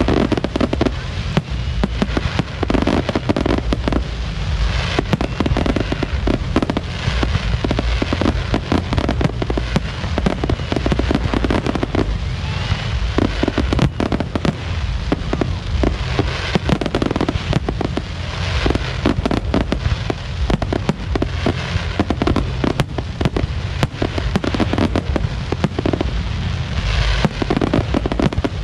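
Fireworks display: a dense, unbroken run of bangs and crackles from bursting shells, over a steady low rumble.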